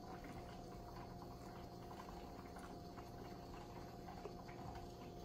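Very quiet room tone with a faint steady hum, and faint chewing of a bite of steak.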